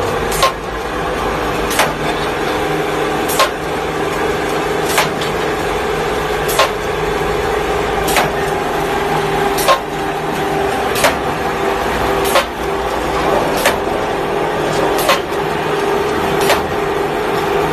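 Charcoal making machine running with a steady mechanical hum and a sharp knock about every second and a half, its working cycle repeating evenly.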